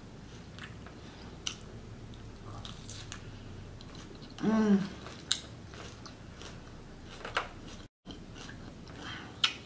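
Close-up eating sounds of a Caesar salad: crisp romaine lettuce and croutons being bitten and chewed, with scattered short crunches. A brief vocal sound from the eater comes about halfway through.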